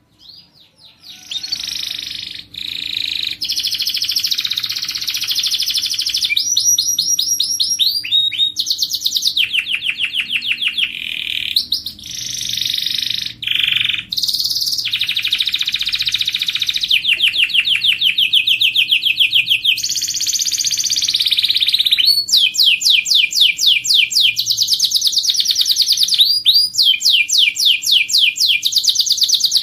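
Domestic canary singing a long, loud song made of fast trills, rapid runs of repeated chirps, after a brief pause at the start.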